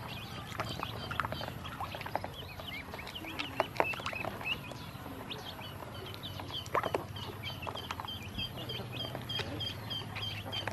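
Ducklings peeping: many short, high peeps overlapping, settling near the end into an even run of about three peeps a second, with scattered sharp clicks.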